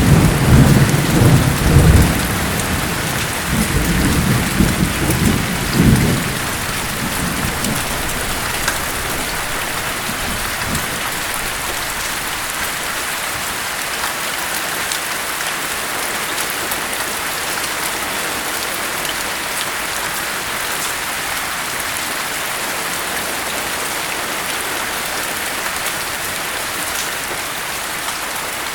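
Steady heavy rainfall with a loud rolling thunder rumble right at the start, which fades out over the first ten seconds or so, leaving only the even hiss of the rain.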